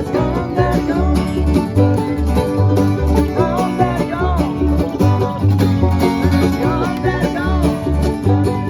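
An acoustic string band playing a bluegrass-style tune: quick plucked-string picking over a steady, pulsing bass line.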